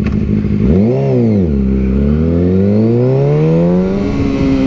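Sport motorcycle engine accelerating: the pitch rises and falls back quickly about a second in, then climbs steadily for a few seconds under throttle and levels off near the end.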